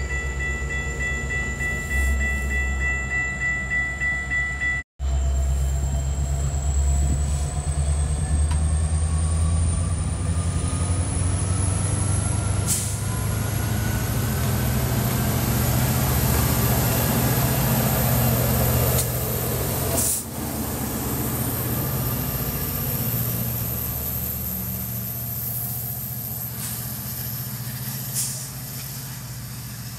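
Metra diesel-hauled commuter train pulling out and picking up speed as its bilevel cars roll past: the locomotive's engine runs under load while a high thin whine climbs steadily in pitch. The sound eases off over the last third.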